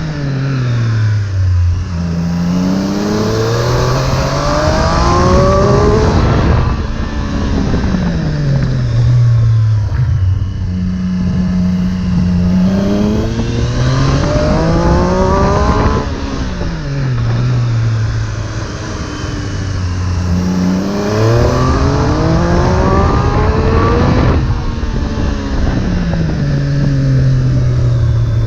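Triumph Street Triple 765 S inline three-cylinder engine through an Arrow exhaust, pulling hard up through the revs about three times and dropping back in pitch between pulls as it slows and changes down.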